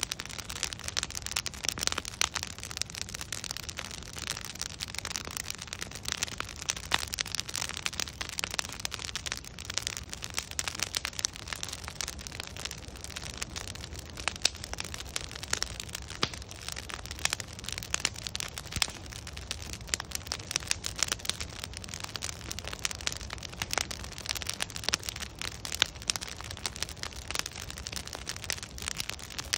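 Wood fire crackling steadily: many sharp irregular pops and snaps from the burning logs over a low steady rumble of the flames.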